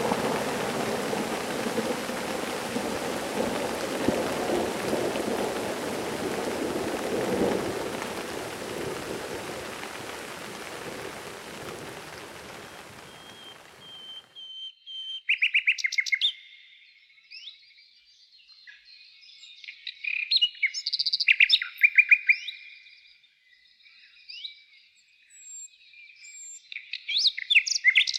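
Rain with a low thunder rumble, fading out gradually over about fourteen seconds. It gives way suddenly to clean quiet, in which small songbirds chirp and trill in short bursts of phrases.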